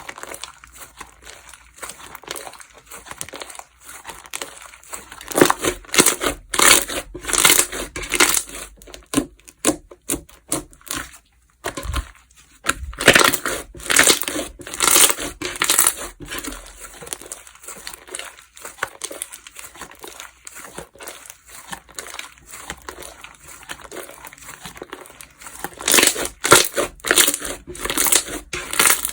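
Slime being squeezed, pressed and stretched by hand, giving dense crackling and crinkling pops. The crackling comes in three louder spells with quieter handling between them, and there is a brief silent break just before the middle.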